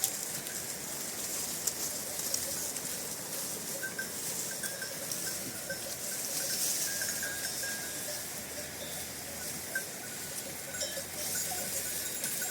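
Small bells on grazing livestock tinkling now and then over a steady outdoor hiss.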